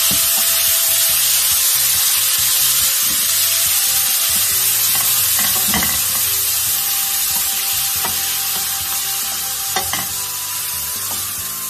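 Minced beef and chopped onion sizzling steadily in a stainless steel frying pan as it is stirred with a wooden spatula, the raw mince being browned until pale. A couple of short knocks of the spatula against the pan stand out, about six and ten seconds in.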